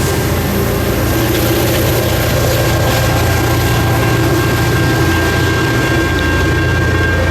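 Caltrain diesel train running close by: a steady low engine drone with a thin high whine held over it.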